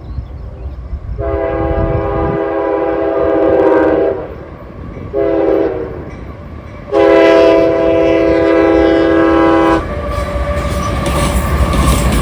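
Locomotive multi-chime air horn sounding a long blast, a short blast and another long blast, over the low rumble of the train. After the last blast the passing cars rattle on the rails.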